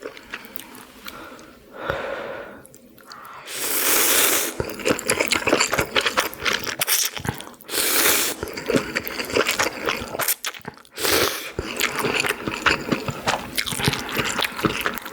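Close-miked eating: wet chewing and smacking clicks throughout, broken three times by loud hissing slurps, the longest about a third of the way in.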